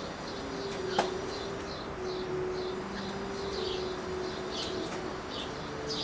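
Backyard birds chirping, short high notes repeating two or three times a second, over a faint steady low hum. A single sharp click about a second in.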